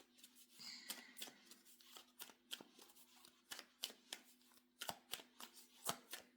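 Tarot cards being shuffled by hand: a run of soft, irregular card clicks and slaps, a few a second.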